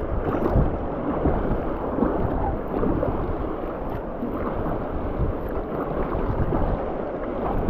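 River water rushing through rapids in a steady noisy wash, with wind rumbling on the microphone.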